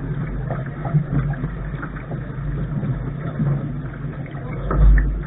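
Wind and water noise on the bow of a Lark sailing dinghy under way: a steady low rumble with a strong swell near the end.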